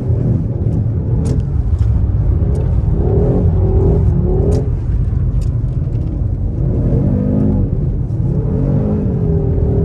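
Rally car engine driven hard on ice, heard from inside the car: a steady low drone with the revs rising and falling twice. A few sharp clicks are scattered through it.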